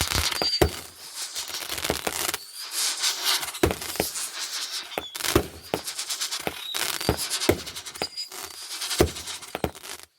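Consumer fireworks going off: an irregular run of sharp bangs and crackles over a hissing noise, with a few brief high whistles.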